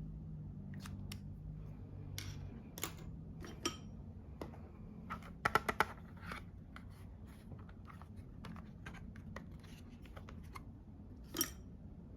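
Light clicks and taps of makeup items being handled, with a quick run of four clicks about halfway through and a single sharper click near the end, over a low steady hum.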